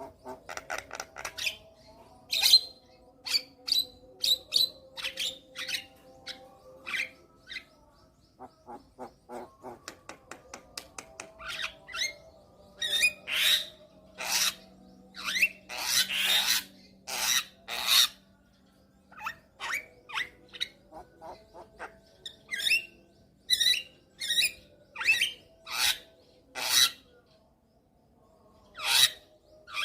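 Javan myna (jalak kebo) singing a long, varied song of short harsh notes and squawks, with a fast run of ticking notes about a third of the way in and a cluster of loud rasping calls near the middle.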